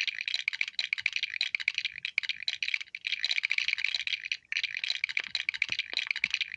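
Small plastic Lego pieces clattering and rattling together in a dense run of rapid clicks, broken by brief pauses about two, three and four and a half seconds in.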